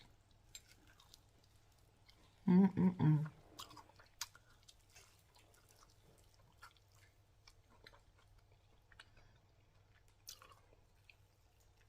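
A person chewing crispy deep-fried battered chicken wings, with faint crunches and mouth clicks. About two and a half seconds in there is a short voiced sound from the eater.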